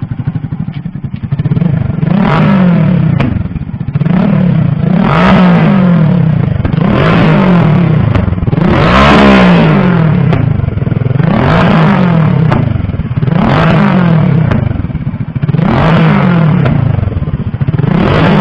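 Engine exhaust through an M4 aftermarket muffler, revved hard about eight times in a row, each rev rising and dropping back, with sharp popping backfires on the overrun.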